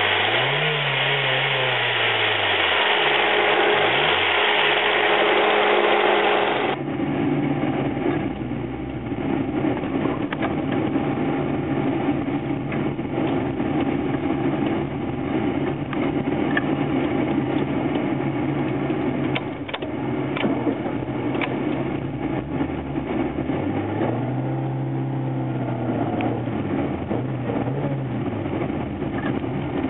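Ford Escort/Orion 1.6i four-cylinder fuel-injected engine idling and being revved with the car standing still. Its pitch rises and falls in quick blips in the first few seconds. It idles steadily at about 1000 rpm, then near the end it is revved twice to about 4000 rpm. From about 7 s in it is heard more muffled, from inside the cabin.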